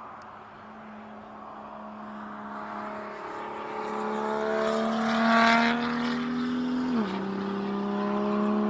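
MotoGP safety car's engine pulling in gear, rising slowly in pitch and growing louder toward the middle, then dropping sharply in pitch about seven seconds in at a gear change before pulling on.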